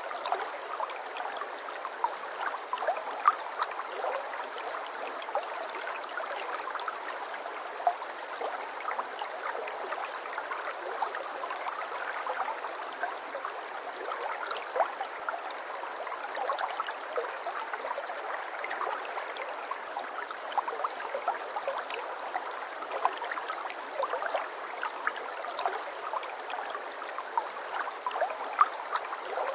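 Shallow brook babbling over stones: a continuous rush of running water with constant small gurgles and splashes.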